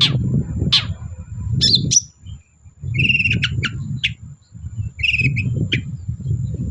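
Long-tailed shrike (cendet) singing: two sharp down-slurred calls, then a varied run of chirps and buzzy chattering phrases. A steady low rumble runs underneath and briefly drops out about two seconds in.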